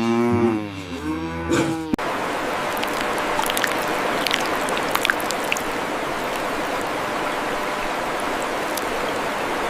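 A cow mooing, its pitch bending up and down, cut off abruptly about two seconds in. A steady rushing noise follows, like running water, with a few faint ticks in it.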